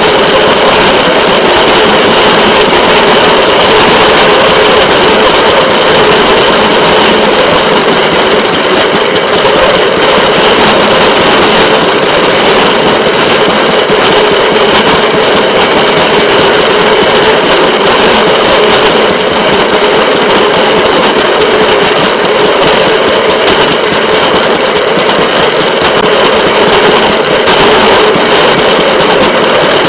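Steady, loud running noise of a moving train: a constant engine-like drone with no distinct knocks or horn blasts.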